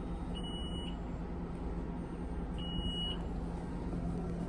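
Two electronic beeps, each a single high steady tone lasting about half a second and spaced about two seconds apart, over a steady low hum.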